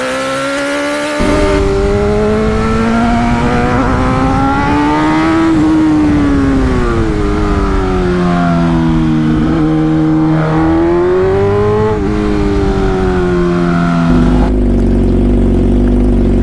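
A sport motorcycle's inline-four engine under way, its revs climbing and falling several times as the rider works the throttle, with a few sudden steps in pitch at gear changes.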